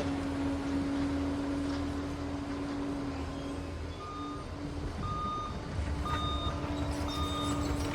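Liebherr PR 746 crawler dozer's diesel engine running with a steady low hum. About halfway in, its reverse alarm starts beeping about once a second, the sign that the machine has been put into reverse.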